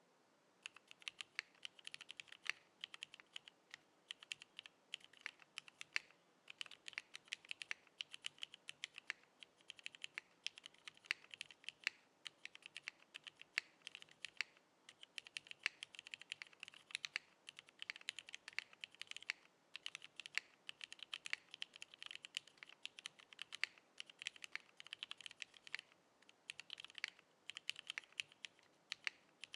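Typing on a Singakbd Kohaku custom mechanical keyboard with vintage Cherry MX Black linear switches, a polycarbonate plate and GMK keycaps: quick runs of clacking keystrokes with short pauses, starting about half a second in.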